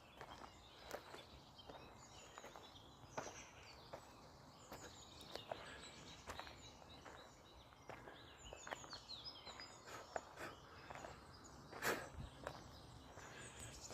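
Faint outdoor ambience: small birds chirping now and then, with scattered irregular clicks and knocks. One knock near the end is louder than the rest.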